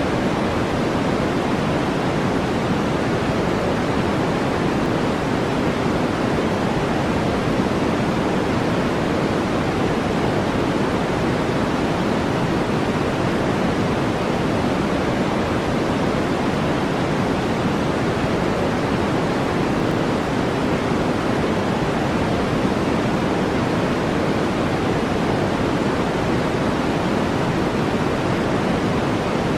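Steady synthetic noise, an even hiss that is heaviest in the low-mid range and thins out toward the top, with no change at all.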